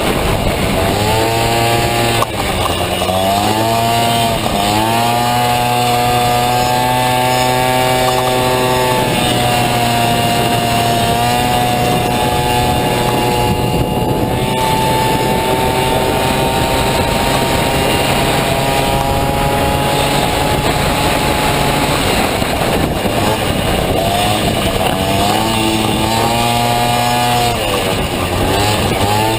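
Honda Dio two-stroke scooter engine running hard at race pace. It dips briefly and climbs back a few times, as the throttle is eased and reopened, and is held at high, nearly steady revs through the middle stretch.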